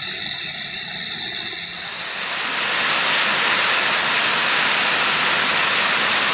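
Torrential rain falling steadily, a dense hiss that becomes louder and fuller about two seconds in.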